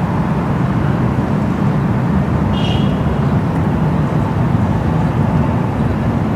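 Airbus A330-200 twin jet engines at takeoff power, a loud, steady deep rumble.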